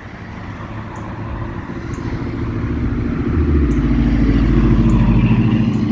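A motor vehicle passing on the road, its engine rumble growing steadily louder and loudest near the end.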